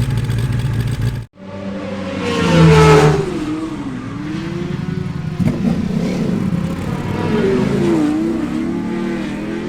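Classic racing motorcycle engine running steadily, cut off suddenly a second in, then another racing motorcycle engine being revved in the stand, the revs rising and falling several times, loudest about two seconds in.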